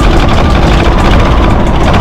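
Diesel engine of heavy earthmoving equipment running steadily and loud.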